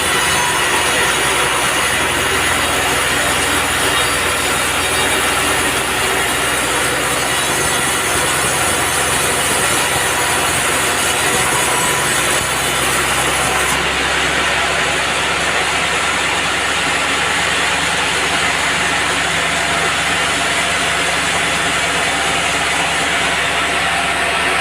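Band sawmill running and sawing a teak log, a loud, steady mechanical clatter over a low hum; the higher hiss drops away about fourteen seconds in.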